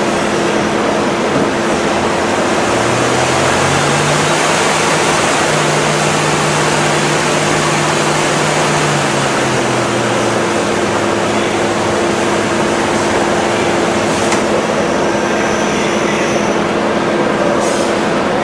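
Milling machinery running steadily, with a loud, even rushing noise and a constant hum. A lower motor tone comes in about three seconds in, steps up in pitch, then falls away around ten seconds in.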